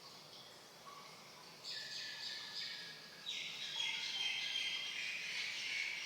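Water under mains pressure hissing and spraying from an open tap or pipe end. It gets louder in abrupt steps about a second and a half in and again about three seconds in, with a thin whistle over the hiss.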